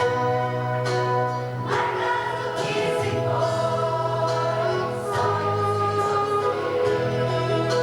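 A choir singing a song over instrumental accompaniment, moving between long held notes.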